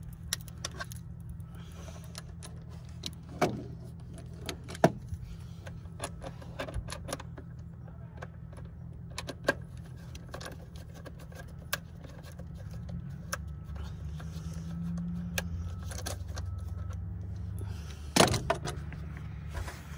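2007 Jeep Wrangler engine idling steadily, its hum shifting up a little about two-thirds of the way through. Scattered sharp clicks and knocks come over it, with a louder clatter near the end.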